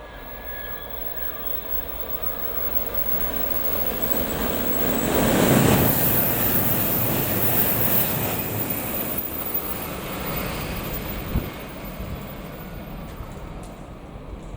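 Shinkansen test train (923 series Doctor Yellow) running through a station at speed without stopping. A rushing noise builds, is loudest about five to eight seconds in, then fades as the train goes away. A single sharp click comes a few seconds after the peak.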